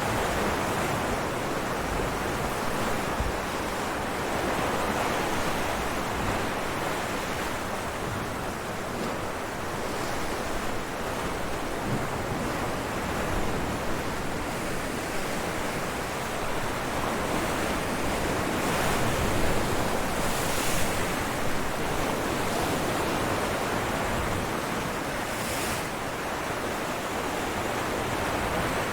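Ocean waves breaking on rocks, a continuous rushing surf that swells and ebbs, with a few brighter crashes in the second half.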